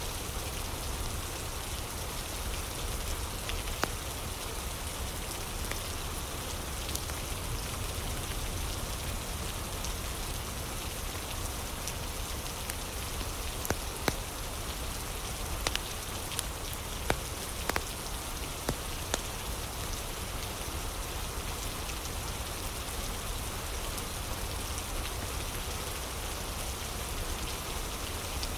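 Steady rain, with a few sharp crackles from a fire, mostly in the middle.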